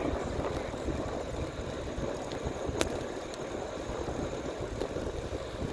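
Wind buffeting the phone's microphone on a moving bicycle, with a steady low rumble of tyres on the path. There is a faint click near the middle.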